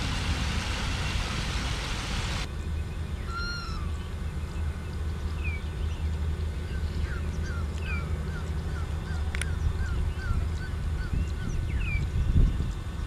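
Wild birds calling: a series of short chirps and whistles, coming in quick succession a few seconds in, over a steady low rumble. A hiss cuts off about two seconds in, and there is one sharp click later on.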